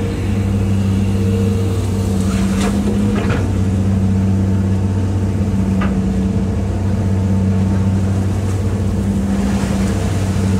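Hitachi EX200-5 excavator's diesel engine running at a steady speed while the machine works in the pond, with a few faint short squeaks and clicks from the machine.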